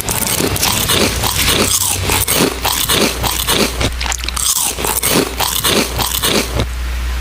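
Outdoor crowd murmur buried under close crackling and rustling noise right at the microphone, with a steady low hum underneath.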